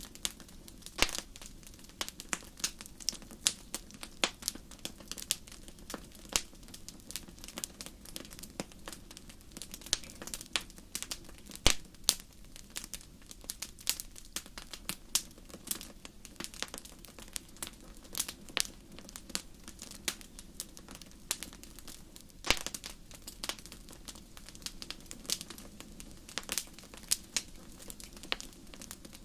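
Wood fire in a fireplace crackling: irregular sharp pops and snaps, several a second, with a few louder pops, over a low steady burning rumble.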